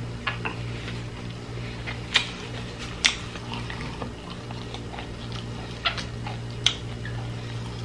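A person chewing a mouthful of soft food with the mouth closed: scattered wet mouth clicks and smacks, about six, irregularly spaced, over a steady low hum.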